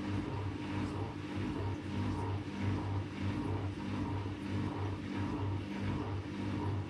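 AEG Lavamat Turbo washer-dryer running through a wash, its motor and drum giving a steady hum that pulses unevenly several times a second.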